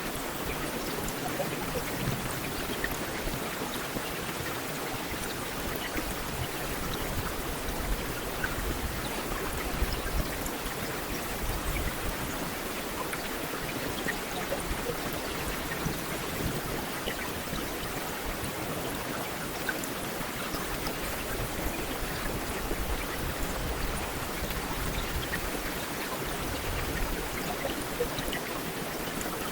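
Heavy rain falling steadily, a dense even hiss with many individual drops ticking against hard surfaces and a low rumble underneath.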